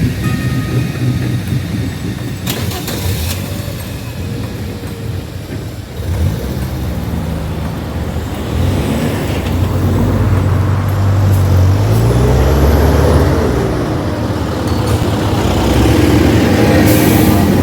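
Road vehicles pulling away and driving past, their engines rising in pitch as they accelerate. It gets louder from about six seconds in.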